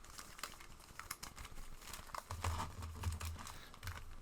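Trading cards and card pack wrappers being handled: light crinkling with many small clicks and taps.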